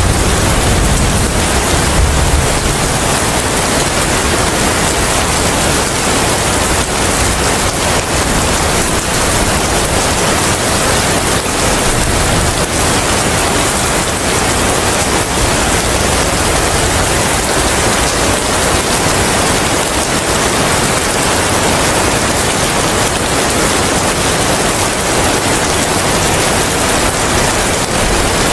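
Steady rain with wind, an even hiss that does not change. A deep low rumble fades away in the first couple of seconds.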